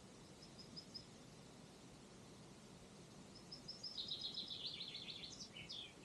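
Songbird singing over a faint steady outdoor hiss: a few short high notes near the start, then about three and a half seconds in a louder song of rapid repeated notes that ends in a quick descending flourish.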